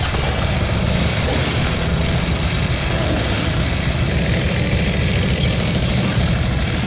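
A motorcycle engine running steadily at low revs, a fast even low pulsing throughout.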